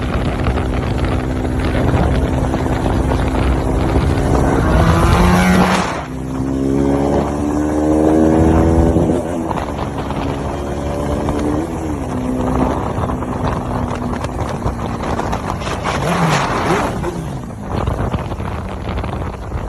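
Motorcycle engine under way, climbing in pitch as it accelerates, with a gear change about six seconds in. It pulls up again, then eases off and runs steadier. Wind rushes on the microphone throughout.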